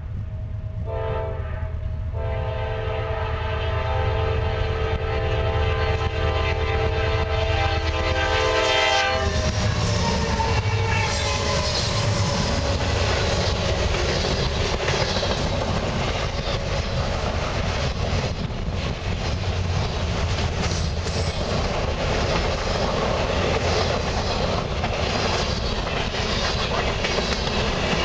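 A fast Norfolk Southern freight train's diesel locomotive horn sounds in short blasts, then holds one long blast for about seven seconds as the train approaches. It cuts off as the locomotives pass. Then comes a loud, steady roll of freight cars going by, with wheels clicking over the rail joints.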